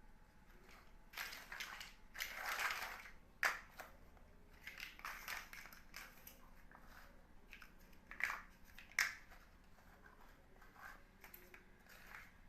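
Plastic building blocks being handled and pressed together: noisy stretches of plastic rubbing and rattling about a second in, then scattered sharp clicks as pieces snap into place.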